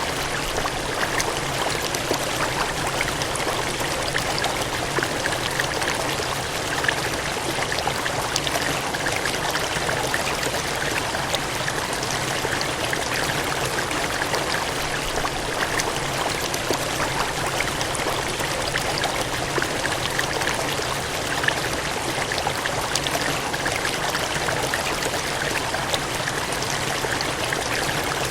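Water gushing and cascading in a steady, dense rush with fine splashing, unchanging throughout.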